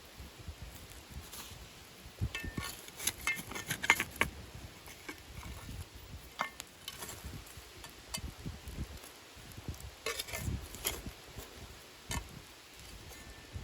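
Scattered clicks and light knocks of things being handled, in two clusters about two to four seconds in and again about ten to eleven seconds in.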